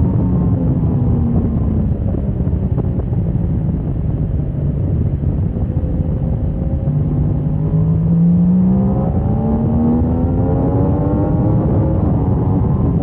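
Motorcycle engine on a track, its pitch falling over the first few seconds as the bike slows, then rising steadily from about seven seconds in as it accelerates hard again, with a heavy rush of wind on the microphone.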